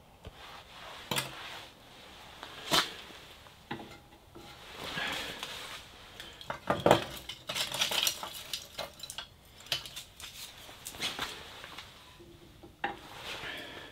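Kindling sticks being fed into a small metal wood stove while a fire is lit: irregular wooden clatter and knocks against the stove.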